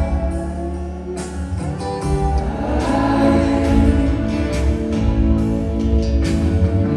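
Live band music at a concert: sustained chords with guitar and drums between sung lines, heard through the venue's PA.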